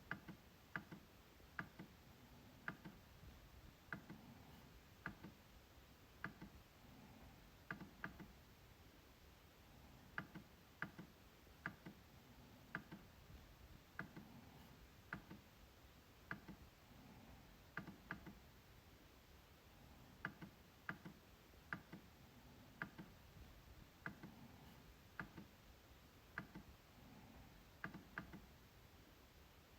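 MacBook trackpad being clicked: short, sharp clicks at an uneven pace, about one or two a second, some in quick pairs.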